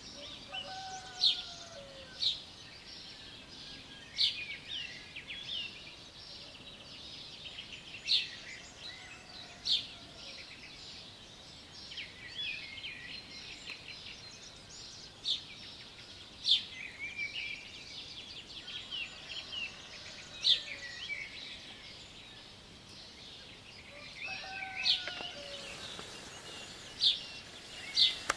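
Several birds singing and chirping together, with one bird's sharp, loud chirp repeating every few seconds over the rest. Fainter calls that glide downward come in near the start and again about 25 seconds in.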